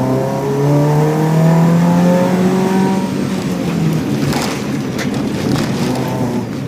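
A rally-prepared Subaru Impreza's naturally aspirated 2.5-litre flat-four, from a 2005 2.5 RS, pulling hard under full throttle; its note rises for about two seconds. It then drops back into a rougher, noisier stretch with a few sharp knocks, and the engine picks up again near the end.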